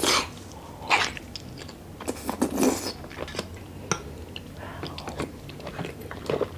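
Close-miked eating of grilled jumbo oysters in sweet chili garlic sauce: wet biting and chewing sounds, with short sharp smacks and clicks about once a second and a busier stretch a couple of seconds in.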